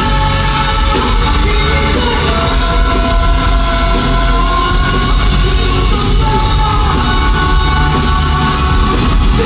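Live concert recording of a rock song: a full band with heavy bass and a singer's long held notes.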